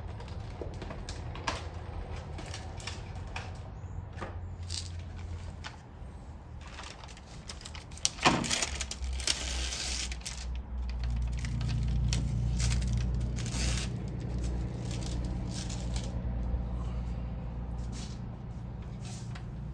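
Scattered light metallic clicks and clinks of hydraulic lifters and hand tools being handled while the lifters are fitted into a Ford 3.8 V6 block, with a louder scraping burst about eight seconds in.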